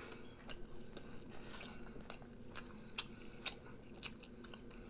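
Faint, close-miked chewing of a bagel burger: soft, irregular wet mouth clicks and smacks, one or two a second.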